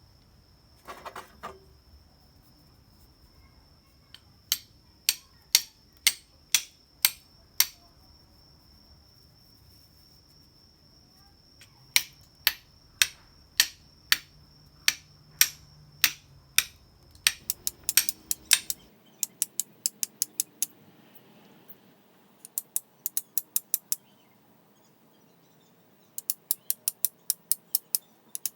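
Flint and steel (hiuchi-ishi) being struck to throw sparks onto char cloth: sharp metallic clicks in runs of several strikes. The strikes come about two a second at first and quicken to about four a second in the later, quieter runs.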